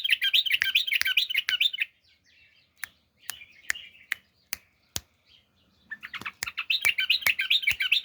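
Pet bulbul singing, a rapid run of warbling chirps for about two seconds, a few softer chirps in the middle, then a busy run of chirps again from about six seconds in. Sharp clicks repeat about two to three times a second throughout.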